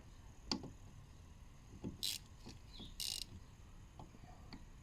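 A few sharp mechanical clicks and two short rattling bursts, the sound of tools and car parts being handled during hands-on work under the bonnet.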